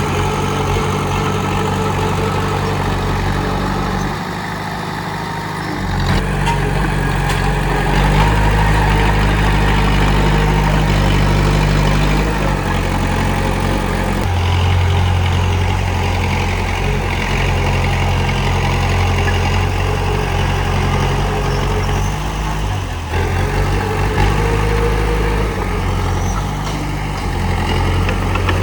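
Komatsu D31P bulldozer's diesel engine running under changing load. It dips in level about four seconds in and comes back louder about two seconds later, with another brief dip near the end.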